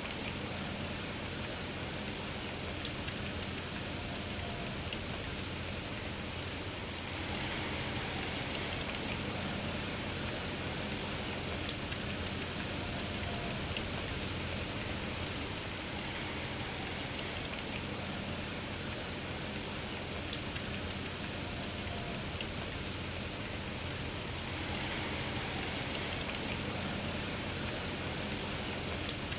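Steady rain falling, an even hiss, with a sharp single drop-like tick standing out about every eight to nine seconds, four times.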